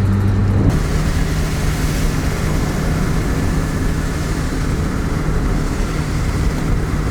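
Mazda Miata engine running steadily on the move, under wind and road hiss. About a second in, the engine note changes and the hiss grows louder.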